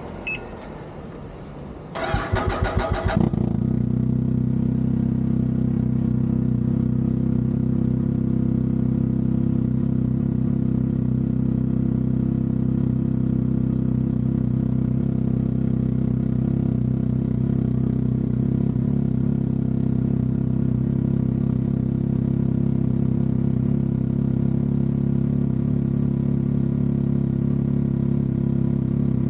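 Can-Am Ryker 900's three-cylinder Rotax engine cranked by the starter for about a second, catching about two seconds in, then idling steadily.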